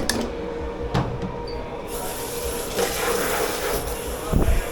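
Water spraying with a steady hiss in a commercial dish pit, starting about two seconds in, over a steady machine hum. A couple of sharp clicks of crockery come before it, and a dull thud near the end.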